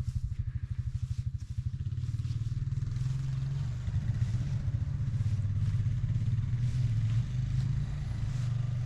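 An old John Deere two-cylinder tractor engine idling with an even, pulsing putt-putt beat, a little louder and steadier from about two seconds in.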